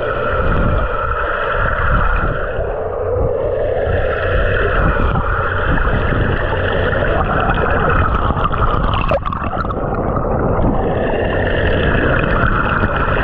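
Rushing water, a steady, loud wash with hollow tones that slowly slide up and down. A single sharp knock or splash about nine seconds in.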